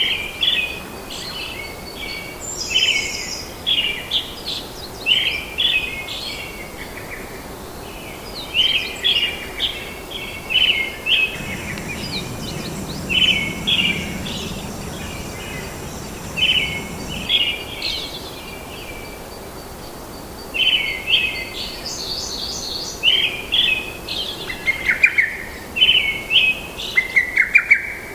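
Birds chirping in short, rapid phrases repeated about once a second, over a steady background hiss of the forest.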